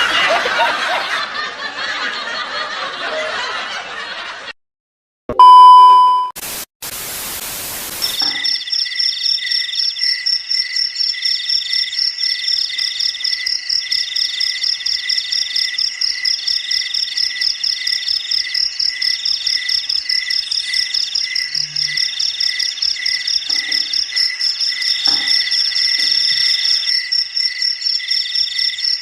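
Shrieking and noise for the first four seconds or so, then a short gap, a brief beep and a burst of static. After that comes a steady, evenly pulsing chorus of high chirps, typical of crickets, for the rest.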